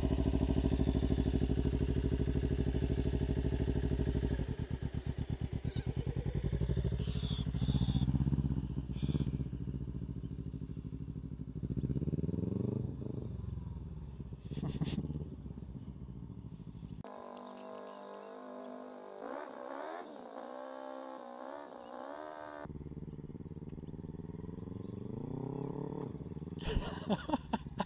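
Kawasaki Ninja 300 parallel-twin engine, idling steadily at first. From about four seconds in, its pitch rises and falls again and again as the learner rider pulls away and rides circles in low gears, and it grows fainter in the middle as the bike moves off.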